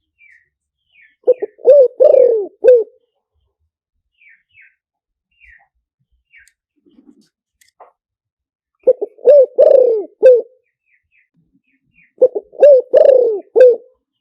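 Spotted dove cooing: three phrases of about four coos each, the middle notes longest. Faint high chirps of small birds sound between the phrases.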